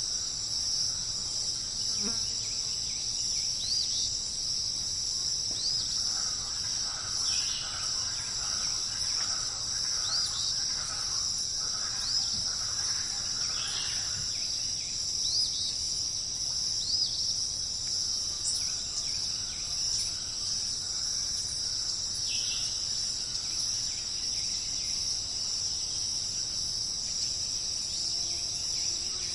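Steady high-pitched trilling of an insect chorus, cricket-like, with short rising chirps repeating every second or two and a few faint bird notes scattered through it.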